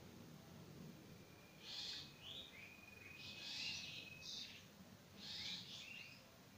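A bird calling repeatedly: a short, harsh, hissy call about every two seconds, with small gliding notes and a thin steady whistle through the middle.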